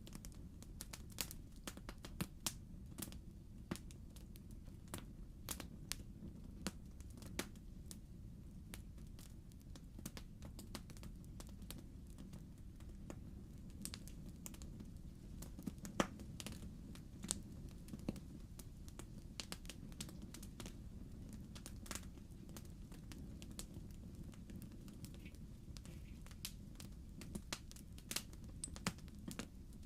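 Wood fire in a fireplace crackling: irregular sharp pops and snaps of burning logs over a steady low rumble of the flames, with one louder pop about halfway through.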